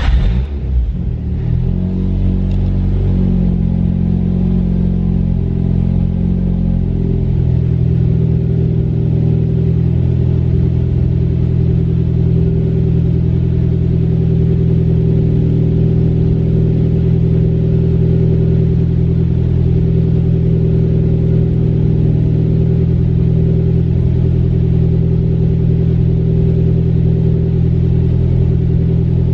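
Nissan Sentra B13's engine catching right at the start and idling. It runs at a higher idle for about seven seconds, then settles to a lower, steady idle. The car has an exhaust leak, by the owner's account.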